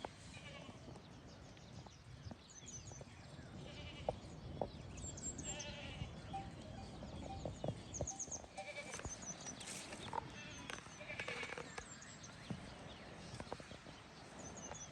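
Livestock bleating several times, with high repeated chirping and scattered short clicks.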